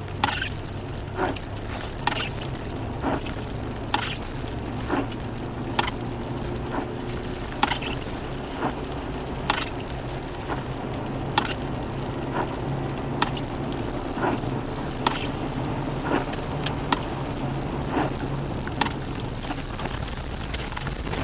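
Car cabin sound recorded by a dashcam: a steady low engine and road drone, with a sharp click about once a second.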